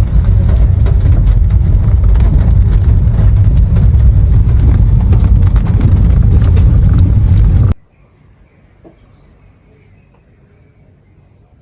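Heavy rain pouring, with a loud rumble of wind or rain noise on the microphone and a dense patter of drops. It cuts off abruptly about eight seconds in, leaving a quiet background with a faint high whistling tone.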